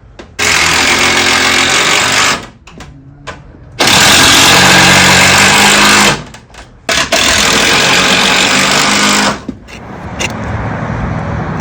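Power tool running in three bursts of about two seconds each, with short pauses between, on a wood roof patch.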